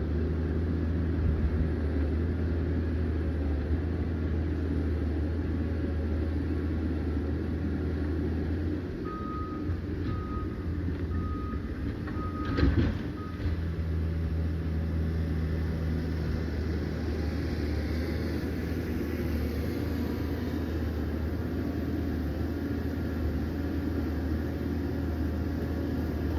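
Liebherr PR 744 crawler dozer's diesel engine running steadily with a deep hum. About nine seconds in, its reversing alarm beeps five times, and a single knock comes partway through the beeps.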